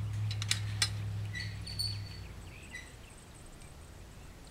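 Outdoor field ambience: a low steady hum that fades away after about two seconds, a few sharp clicks near the start, and a few short bird chirps.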